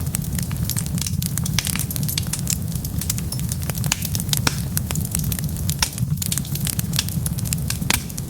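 Wood fire burning, with dense irregular crackles and pops over a steady low rumble.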